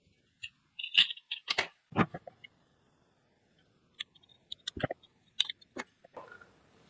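Sharp clicks and light knocks of a small plastic car key fob remote being handled and its case opened, in two quick clusters: one about a second in and another about four seconds in.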